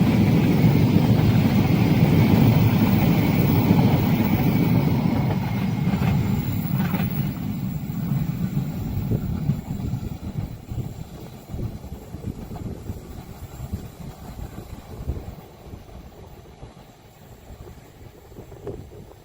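Train running past on the rails, its low rumble loud at first and fading away over the next ten seconds or so as it moves off.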